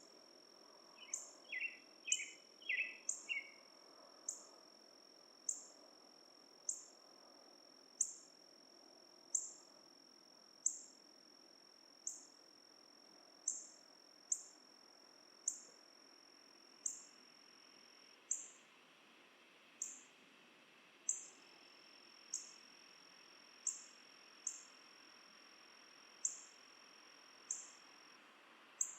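Dusk forest ambience: a short, very high chirp repeating roughly once a second over a steady thin high-pitched tone, with a brief run of lower, quick chirps a second or two in.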